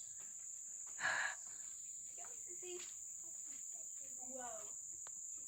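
Insects, cricket-like, trilling in one steady high-pitched drone, with a brief soft scuff about a second in and faint distant voices.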